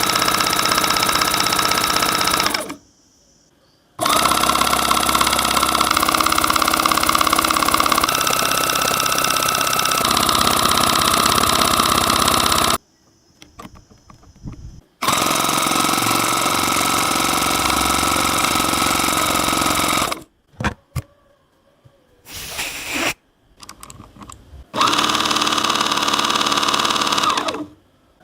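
A motor-driven machine running in repeated on-off bursts, a rough, noisy run with a steady hum under it, each burst starting and stopping abruptly: a long run of about nine seconds, several shorter ones and a few brief blips.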